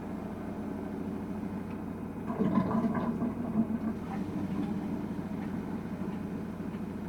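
Samsung WW900 front-loading washing machine running its Super Speed rinse, its motor and turning drum giving a steady hum. About two and a half seconds in the sound grows louder and rougher for about a second and a half, then settles back.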